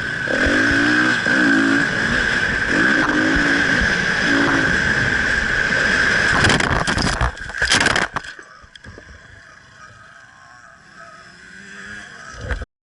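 KTM EXC enduro motorcycle engine revving hard at race speed, its pitch rising and falling through the throttle, over a steady wind rush. About six and a half seconds in comes a burst of loud knocks and clattering, the sound of the bike crashing, after which the engine sound falls away to a much quieter background with scattered knocks.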